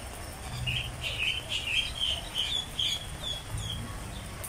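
A bird chirping: a quick run of short, high chirps, many slurring downward, starting about half a second in and fading out near the end, over a low background rumble.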